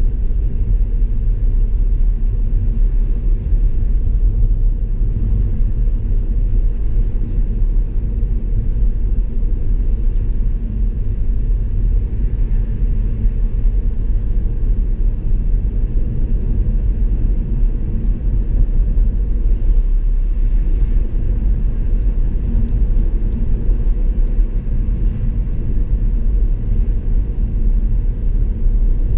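A car on the move: a steady, loud road and engine rumble, strongest in the low end and unbroken throughout.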